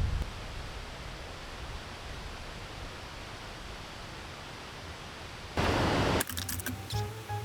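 Steady hiss of rain and wind. About five and a half seconds in, a brief loud rush of noise, then upbeat background music starts.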